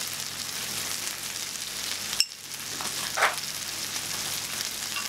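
Chicken chow mein noodles sizzling in a hot wok, a steady frying hiss. A sharp click comes just after two seconds, and a short louder sound about a second later.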